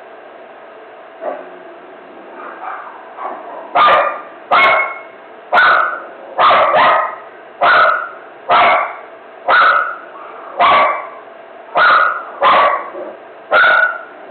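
A dog barking in a frenzy: a few softer sounds at first, then about a dozen loud barks at roughly one a second from about four seconds in.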